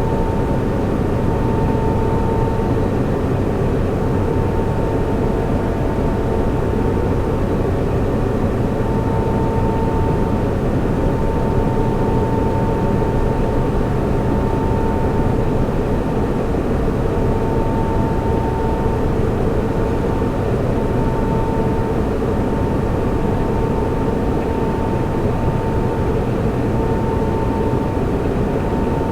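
Server room ambience: the steady rushing hum of cooling fans and air handling, with a thin high whine that swells and fades slightly.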